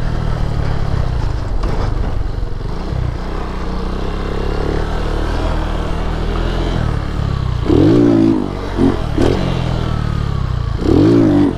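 Lifan KP Mini 150 dirt bike's single-cylinder engine running at low revs, with a few short rises in pitch about eight seconds in and near the end. The engine is bogging, which the rider cannot explain.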